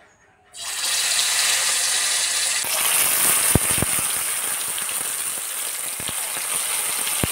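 Marinated chicken tikka pieces sizzling in hot oil in a kadai, starting suddenly about half a second in as the first piece goes in. The hiss grows louder and brighter a little under three seconds in as more pieces are added, with a few soft knocks.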